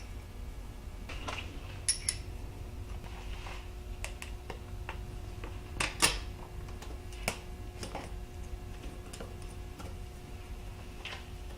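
Metal hand tools (tap, tap wrench and other hand tools) clicking and clinking now and then, a few strikes ringing briefly, the loudest about six seconds in, over a faint steady hum.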